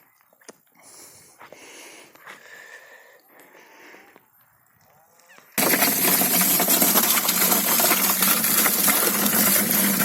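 Water gushing steadily into a dug post hole to soften the ground for deeper digging, starting abruptly a little past halfway. Before it there are only a few faint knocks.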